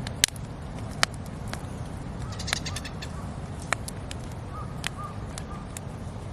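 Wood campfire crackling, with a steady low rush and several sharp pops from the burning wood. A few faint short bird calls sound in the middle.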